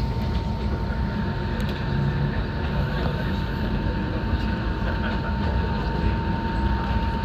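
Enoden electric train running between stations, heard from inside the car: a steady rumble of wheels on rail and running gear, with a constant high thin tone over it.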